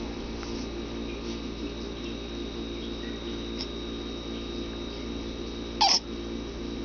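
A 9-week-old baby giving one short grunting squeak near the end, falling in pitch, over a steady background hum.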